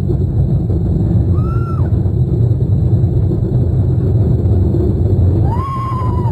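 Heavy, steady rumble of a roller coaster ride, the train and wind noise running together, with a rider's held scream briefly about a second in and again near the end.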